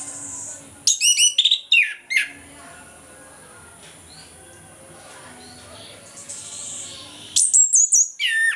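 Chestnut-capped thrush (anis kembang) singing in full song: a loud phrase of rapid, high whistled notes falling in pitch about a second in, and a second such phrase near the end.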